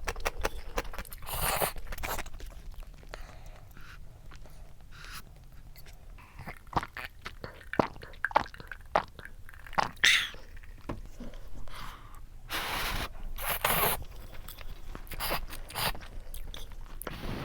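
Close-up eating sounds: chewing, with scattered small clicks and scrapes and a few longer noisy bursts.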